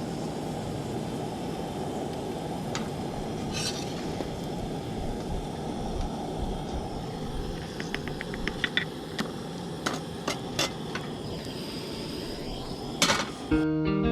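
A steady low rumble of background noise, with a quick run of light clicks a little past halfway and a few sharper clicks after it, the loudest near the end. Guitar music comes in just before the end.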